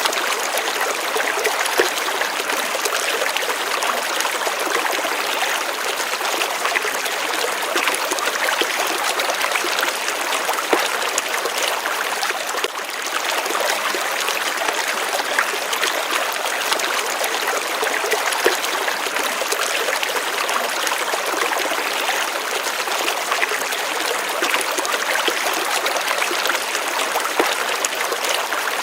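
Gently running water, a small stream or trickle flowing steadily with a soft splashing babble.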